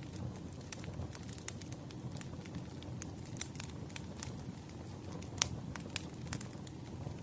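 Wood fire burning, with a steady low rumble and frequent irregular crackles and pops of burning logs; the sharpest pop comes about five seconds in.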